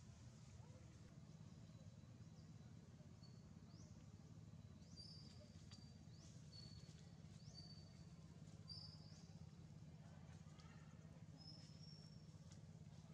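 Faint forest ambience: a bird repeats short, high chirps, quick upward sweeps alternating with brief level notes, about once a second, over a low steady hum.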